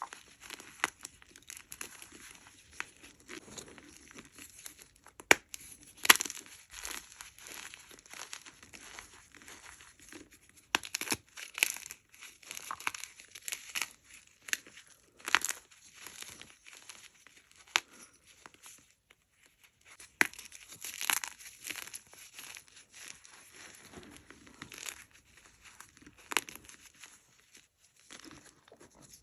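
Blocks of gym chalk crunched and crumbled close to the microphone: irregular crackly, squeaky crunches with a few sharp snaps. The two loudest snaps come about five and six seconds in.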